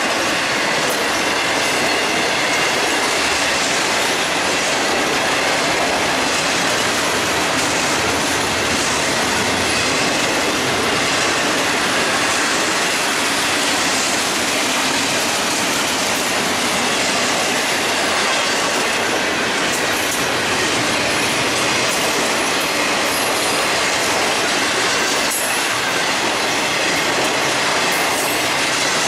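Florida East Coast Railway intermodal freight cars, carrying highway trailers on flatcars, rolling steadily past close by: a continuous noise of steel wheels on rail, with a faint high squeal running through it.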